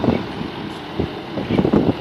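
Wind buffeting the microphone in uneven gusts, a low rumble that swells and dips.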